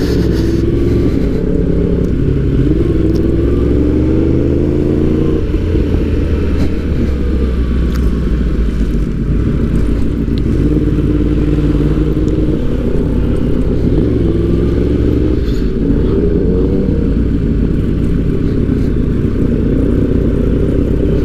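Sport motorcycle engine, heard from the rider's helmet, pulling through the gears: its pitch repeatedly rises, then drops at each shift, over a steady low wind rumble.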